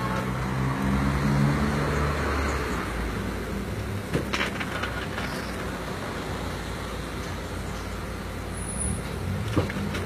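Car engine running at low speed while a small hatchback is manoeuvred in a tight space, mixed with street traffic noise; the engine tone is strongest in the first few seconds. Two brief knocks, about four seconds in and near the end.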